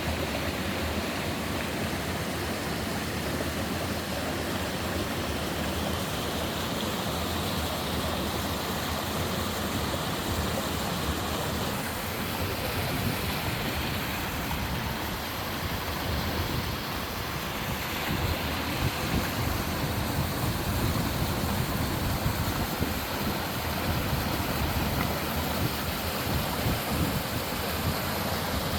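Mountain stream water rushing and splashing over rocks in a small waterfall, a steady unbroken rush. The sound shifts a little about twelve and eighteen seconds in, becoming slightly louder and fuller.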